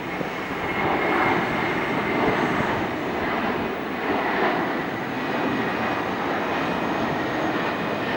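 Jet airliner engines running: a steady rushing noise that swells a little now and then, with a faint high whine.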